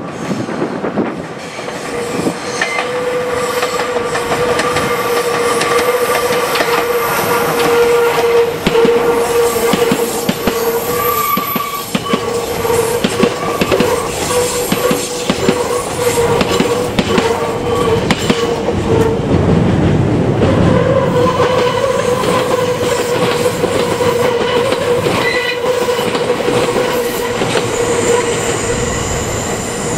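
Meitetsu electric train passing close by: a steady clatter of wheels over rail joints, with a sustained high squeal from the wheels that runs through most of the pass.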